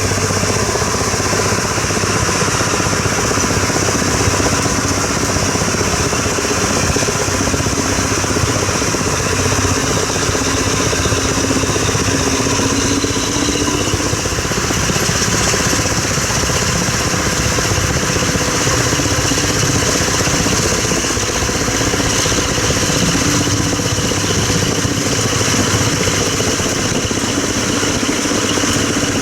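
A moving train heard on board: a steady running rumble with fast, even clatter and machinery noise that goes on without a break.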